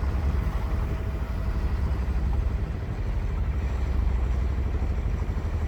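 A sailboat's engine running steadily while motoring into harbour: an even, low drone.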